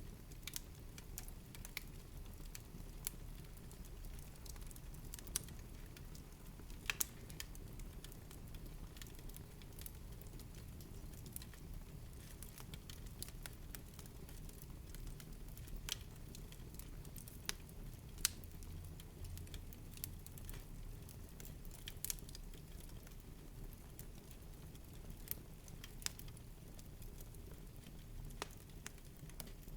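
Wood fire in a fireplace crackling, with scattered sharp pops over a low steady rumble of the burning.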